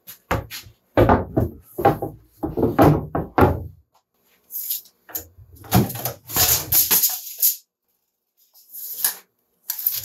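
Wooden boards knocking and scraping in irregular clusters as they are handled and moved about, with no saw running.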